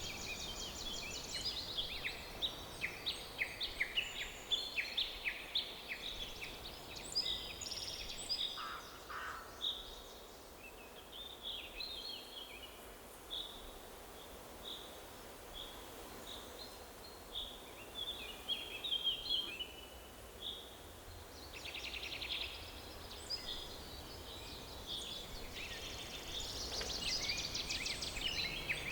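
Several songbirds singing and chirping together in forest ambience, with quick trills and short high calls. The calls are busy at first, thin out in the middle, and grow busy again near the end.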